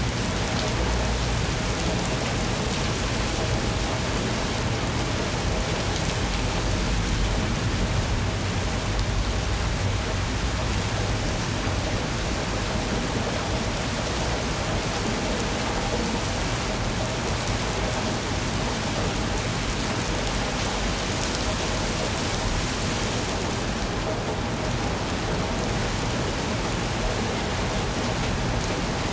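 Steady heavy rain falling, an even dense hiss of drops, with a low rumble underneath that is stronger in the first dozen seconds.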